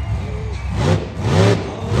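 Monster truck engine revving in quick bursts, its pitch rising and falling several times, with the loudest blips in the second half.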